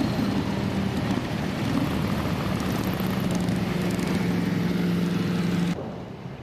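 Motorcycle engine running steadily with a strong low hum over rushing noise, cutting off abruptly near the end.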